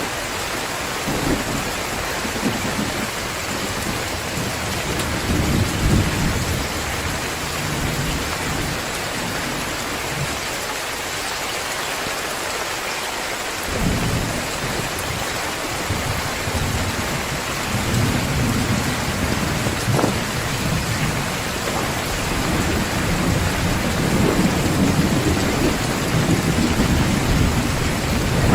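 Heavy, steady rain with rolling thunder: low rumbles swell and fade under the hiss of the downpour, one breaking in suddenly about halfway through and another building toward the end.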